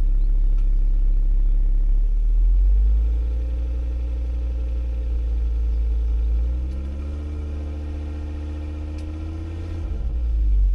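Ford Focus ST Mk2's turbocharged five-cylinder engine running after a cold start. Its revs rise twice and hold for a few seconds each time, then drop back near the end.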